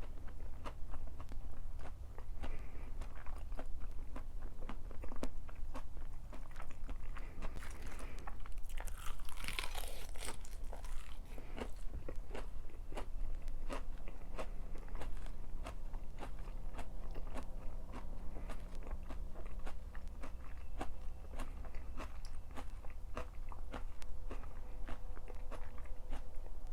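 Close-miked eating: a person biting, crunching and chewing, with many small mouth clicks throughout and a louder, hissier crunching stretch near the middle.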